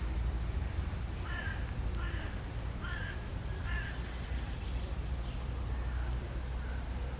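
A crow cawing four times in an even series, about a second in, over a steady low rumble of the surrounding city.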